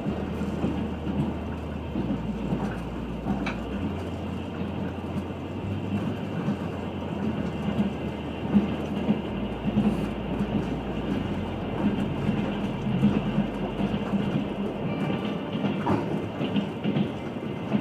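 Trans-Siberian Railway train running, heard from inside the carriage: a steady rumble of wheels on the rails, with a few faint clicks.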